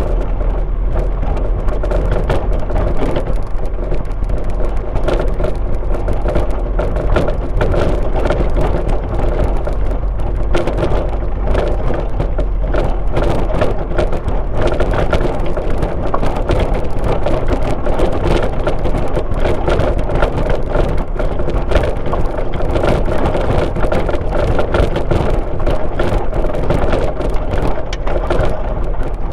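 Car driving along a road: a steady engine and tyre rumble with a constant patter of small ticks and knocks, as heard from inside the car.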